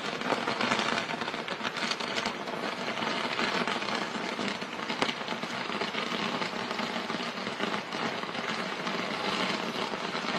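Fireworks crackling: many small pops running together into a dense, steady crackle, with one sharper crack about five seconds in.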